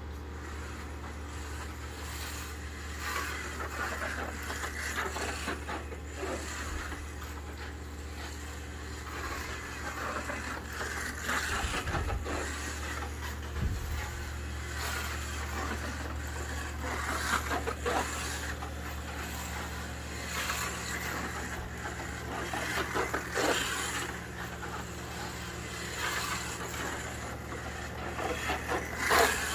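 A 1:24 scale slot car with an NSR racing motor running on a track, its motor whirring and its chassis rattling in uneven surges, over a steady low hum.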